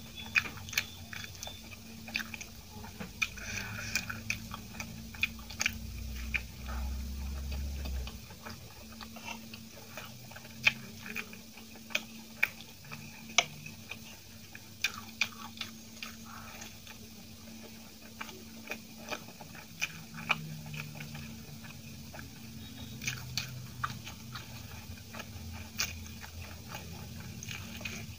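Close-up chewing and wet mouth sounds of someone eating soft steamed idli dipped in tomato chutney, with frequent sharp lip smacks and clicks. A low rumble comes in for about two seconds around six seconds in.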